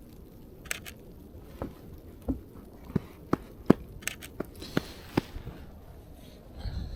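Footsteps crunching in snow: a series of short, sharp crunches at an uneven pace that stop about five seconds in.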